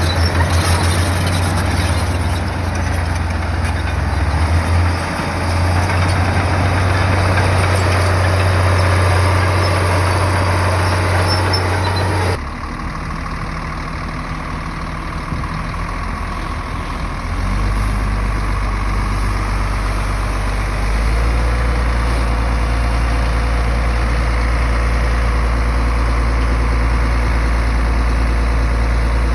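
Heavy earthmoving machinery's diesel engine running steadily under work. About twelve seconds in the sound changes abruptly to a lower, steadier engine note, which steps up again twice later on.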